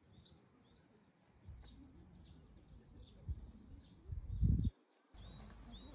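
Faint bird chirps, short and high, scattered over a quiet outdoor background. A brief low rumble comes about four and a half seconds in, then a short drop-out.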